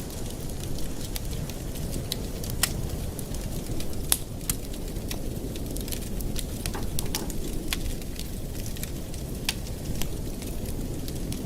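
Wood fire burning in a fireplace: frequent irregular crackles and sharp pops over a steady low rumble.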